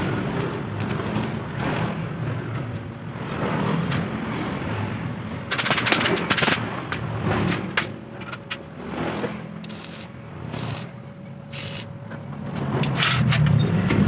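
Electric jigsaw cutting iron, a harsh mechanical buzz that rises and falls in loudness as the blade works through the metal.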